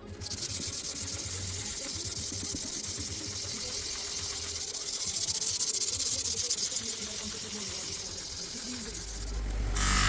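A steady high-pitched hiss. Near the end a low rumble comes in, then a louder, fuller noise.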